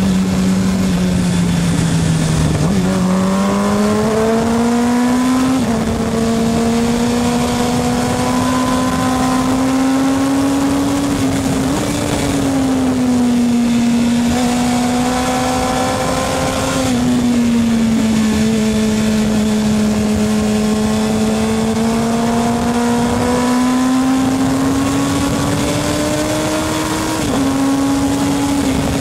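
Motorcycle engine running under load. Its pitch slowly rises and falls throughout, with several sudden steps up and down.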